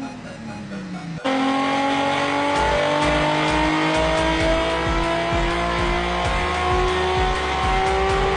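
Nissan Skyline R34's turbocharged RB25DET Neo straight-six, revs falling off in the first second, then the throttle opens sharply and the engine pulls hard under load, its pitch climbing steadily through the rev range as it is being mapped.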